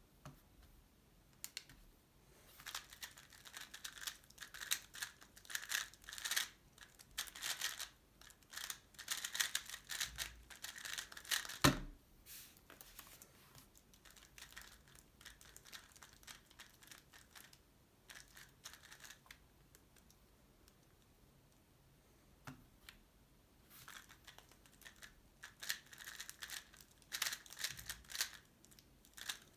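Tornado V3 Pioneer 3x3 speedcube being turned at speed: a fast, dense run of plastic clicks and clacks for about nine seconds, ending in one sharp knock. After a quiet stretch, a second run of rapid turning starts near the end.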